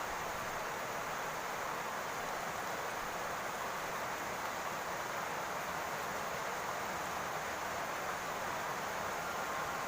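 Steady rain falling on a roof: an even hiss with no let-up and no distinct drops or thunder.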